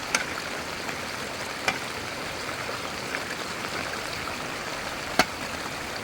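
Steady hiss of heavy rain falling, with three sharp ticks: one at the start, one a little under two seconds in and a louder one near the end.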